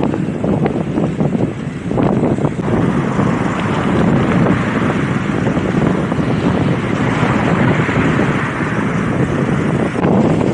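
Strong mountaintop wind buffeting the microphone: a loud, steady rushing with a few stronger gusts in the first few seconds.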